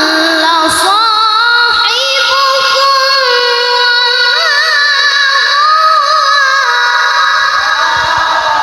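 A child qari's melodic Quran recitation (tilawah): a high voice holding long, ornamented notes with vibrato, sliding between pitches in one sustained phrase.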